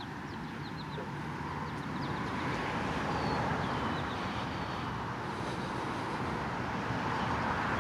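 Road traffic on a nearby highway, a steady rush that slowly swells, with a few faint bird chirps over it.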